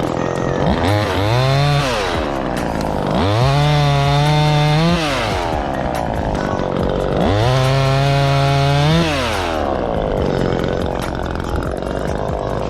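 Chainsaw revved from idle to full throttle three times: a short blip about a second in, then two cuts of about two seconds each, dropping back to idle between them, as sections are lopped off a maple limb.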